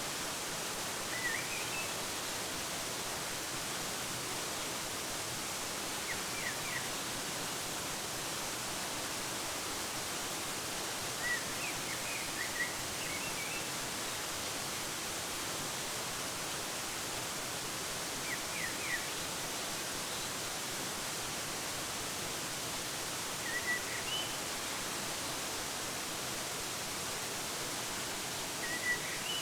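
Steady rush of a waterfall, with a bird giving brief high chirps of two or three notes every five or six seconds.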